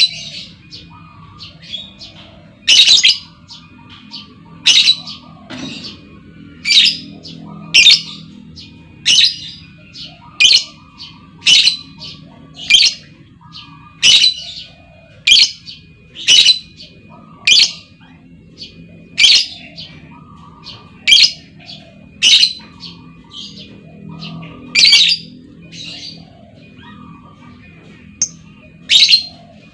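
Female lovebird calling: loud, short, shrill calls repeated about once a second, with fainter chattering between them.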